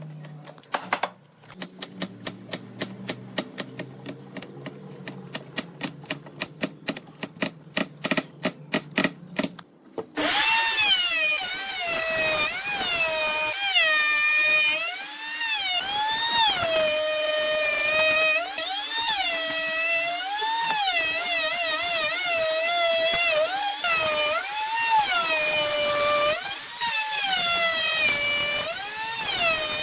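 A run of sharp taps, several a second and quickening, then about ten seconds in a power tool starts up. Its motor whine rises and falls in pitch every couple of seconds as the load on it changes.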